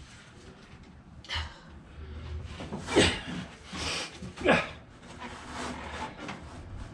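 A man's short wordless grunts and breathy sighs, about four of them, some falling in pitch.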